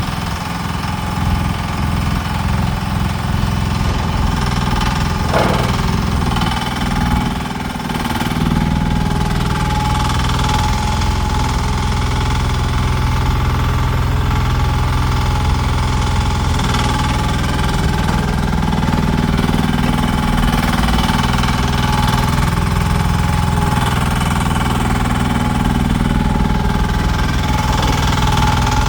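Small Koop diesel engine of a mini excavator running steadily, with a constant high whine riding over the engine note. The level dips briefly about seven seconds in.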